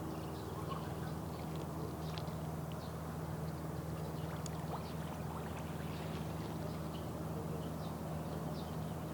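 Seaside ambience: a steady low engine-like hum made of several constant low tones, with faint short high chirps and ticks scattered throughout.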